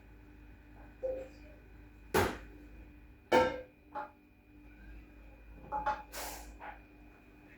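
Several separate clattering knocks of hard objects, a few with a brief ringing tone, over a faint steady hum.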